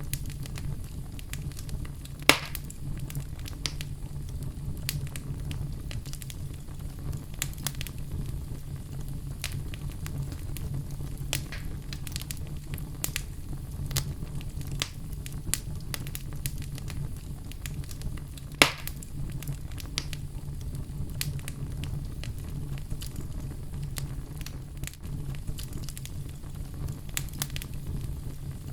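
Oak logs burning in a fireplace: a steady low rumble of flame with frequent sharp crackles, and two loud pops, one about two seconds in and one near two-thirds of the way through.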